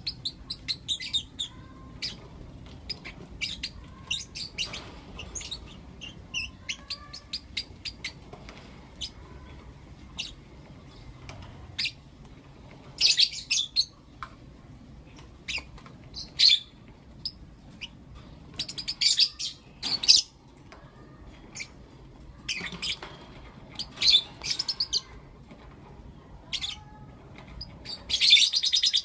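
Lovebirds chirping: scattered short, high chirps, broken several times by louder spells of rapid chattering calls.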